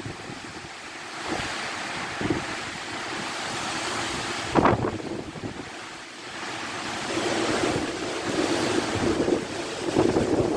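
Strong gusting wind buffeting the microphone in waves, with a hard gust about halfway through and heavier gusts building near the end.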